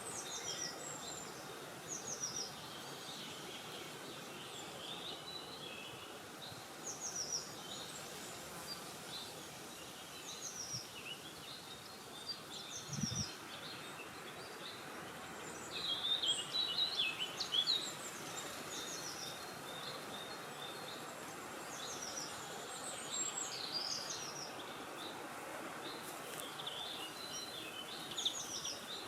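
Small birds chirping and singing in short high phrases, scattered throughout, over a steady background rush of wind. A brief low thump comes about thirteen seconds in.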